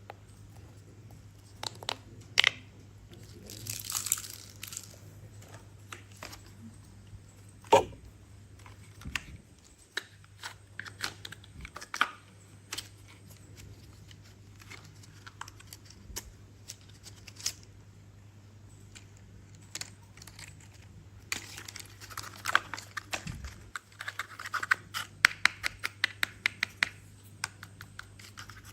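Plastic toy pieces being handled: scattered clicks and knocks, a short rustle about four seconds in, and a quick run of rapid clicks near the end.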